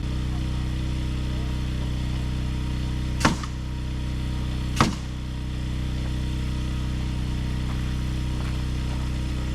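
An engine runs steadily at a constant speed, with two sharp knocks about a second and a half apart near the middle.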